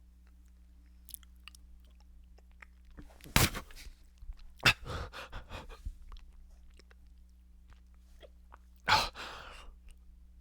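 Close-up chewing and biting into a microwave burrito, with wet mouth clicks. There are loud sudden mouth noises about three and a half and five seconds in, and a sharp breathy burst near the end, over a faint steady low hum.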